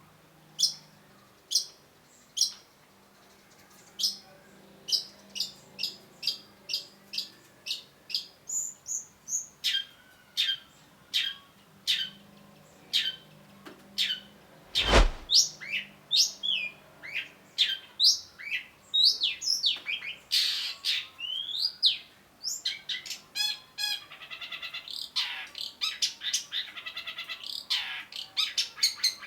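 Long-tailed shrike singing: a run of sharp, downward-sweeping notes that come faster and closer together, then a buzzy rapid trill near the end. One loud click about halfway through.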